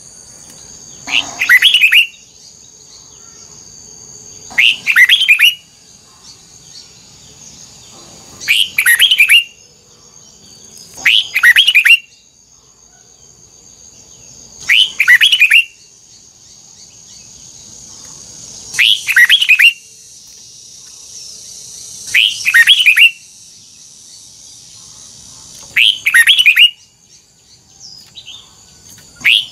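Red-whiskered bulbul singing short, loud phrases about every three to four seconds, with a steady high-pitched whine underneath.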